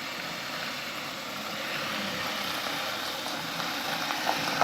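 Canter dump truck's diesel engine running steadily.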